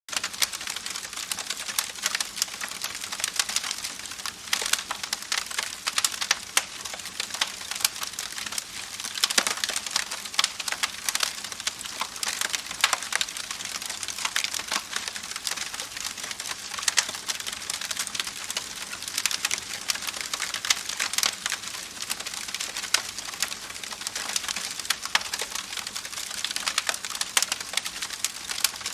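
Wood campfire crackling, a dense irregular run of sharp pops and snaps over a soft hiss, starting abruptly right at the beginning.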